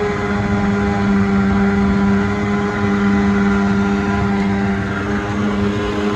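Boat motor idling steadily at an even pitch right after a hard cold start in freezing weather.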